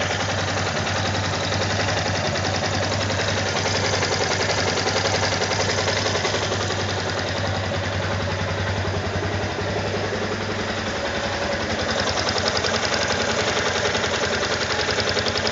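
Yamaha XTZ 250 Ténéré's single-cylinder engine running steadily with a fast, light ticking clatter, like a sugarcane-juice press motor. On this nearly new, not-yet-serviced engine the owner takes the ticking to be normal, but is unsure.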